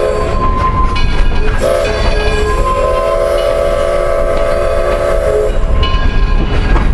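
Steam locomotive whistle blowing a chord. A blast ends just as the sound begins, a short toot comes in under two seconds in, then a long blast of about three seconds, over the steady rumble and rail clatter of the moving train.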